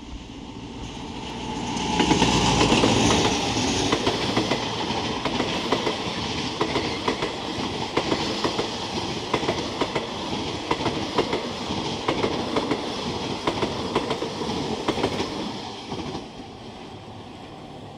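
An Alstom diesel-electric locomotive hauling a passenger train goes past loudly about two seconds in, then its carriages roll by with a rapid clickety-clack of wheels over the rail joints. The sound drops away suddenly near the end as the last carriage passes.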